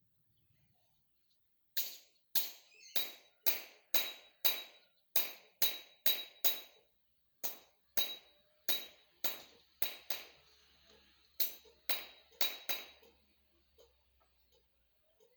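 Repeated sharp strikes, about two a second, each leaving a high ringing note. They come in three runs: about ten strikes, a short pause, six more, then four.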